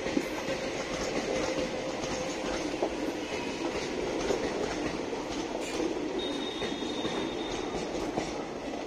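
ICF passenger coaches rolling past at close range, a steady rumble with wheels clicking over rail joints. A thin high squeal from the wheels on the rails comes in about six seconds in and lasts roughly two seconds.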